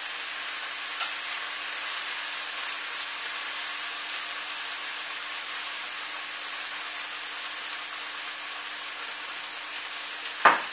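Tofu and vegetables sizzling steadily in a hot wok, the soy-sauce mixture just added, over a faint steady hum. A single sharp knock comes near the end.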